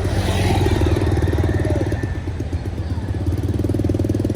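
A vehicle engine running steadily, with a rapid even pulsing beat; a brief hiss sounds at the very start.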